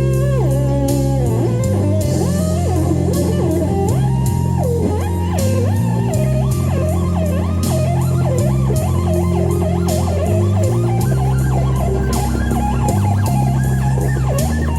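Lead guitar playing a melodic solo full of string bends and vibrato over a blues-rock backing track with bass and drums.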